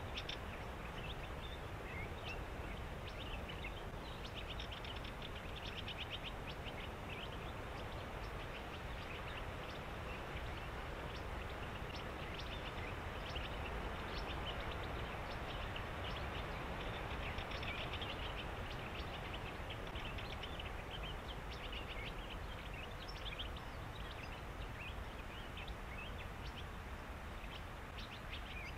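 Reed-bed wildlife calling: repeated rapid chattering trains of short high notes, coming and going in clusters over a steady low background hiss.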